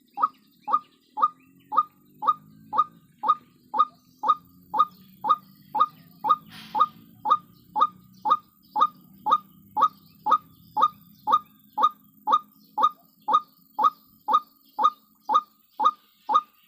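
White-breasted waterhen calls: a steady string of short 'kwak' notes, each falling sharply in pitch, repeated evenly about twice a second. There is a brief rustle a little before the middle.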